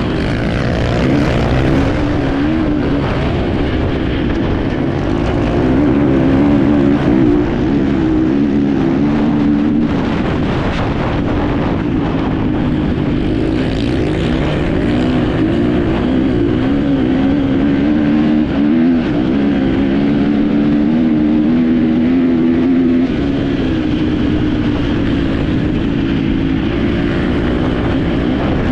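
Enduro motorcycle engine running hard under the rider, its pitch constantly rising and falling as the throttle is worked over rough terrain, with rushing wind and riding noise throughout.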